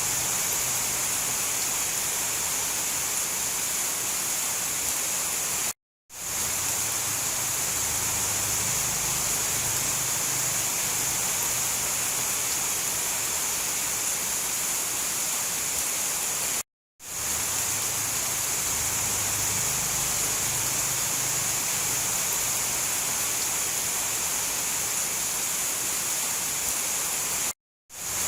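Steady rain, a continuous even hiss. It cuts out to silence for a moment three times, about every eleven seconds, and swells back in each time: a short rain recording played on a loop.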